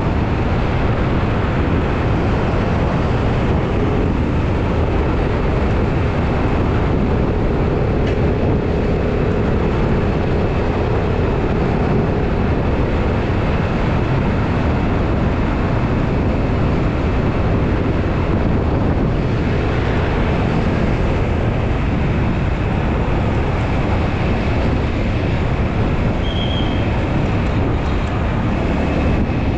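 Steady wind rush on the microphone and the hum of a small scooter engine, heard from a camera on the scooter's dashboard while riding.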